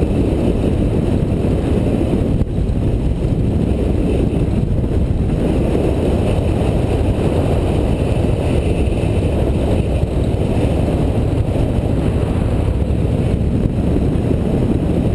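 Motorcycle riding at a steady speed: engine running under wind rushing over the microphone, a constant low noise with no changes.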